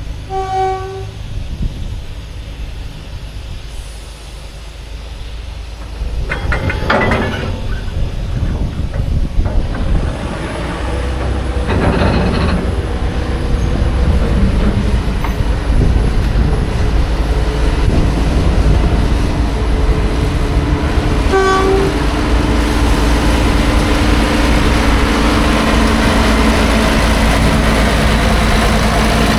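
Steam locomotive at work: its whistle gives a short toot at the start and another about three-quarters of the way through. Between the toots come two heavy noisy blasts, and from about halfway the steady rumble of the engine grows louder.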